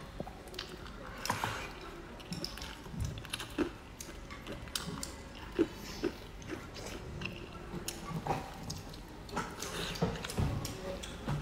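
A person chewing and biting mouthfuls of chicken feet, bacon and rice close to the microphone, with irregular wet smacks and clicks.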